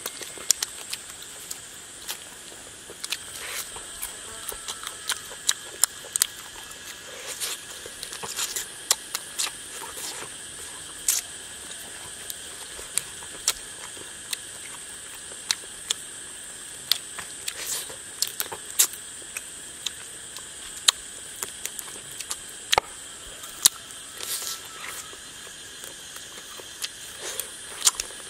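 Close-up eating sounds: irregular smacks and clicks of lips and teeth chewing and picking at roasted frog meat, with a steady high hum underneath.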